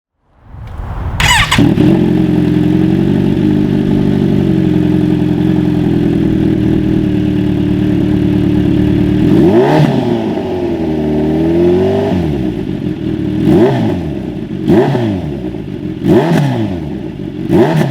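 Kawasaki Z900 inline-four engine through a full header exhaust with an SC Project slip-on: it starts with a quick rev flare, then idles steadily. About ten seconds in it is revved with a longer rise and fall, followed by four short throttle blips.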